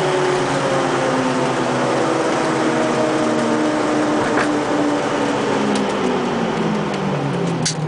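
Renault Clio hillclimb car's engine heard from inside the cabin, its revs falling steadily as the car slows, over road and tyre noise. A brief sharp hiss near the end.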